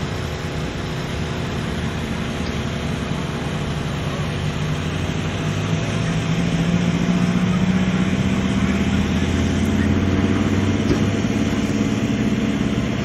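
Engine of a lifted Volkswagen Beetle on monster-truck tyres running as it drives slowly across grass. Its note rises a little and gets louder about halfway through.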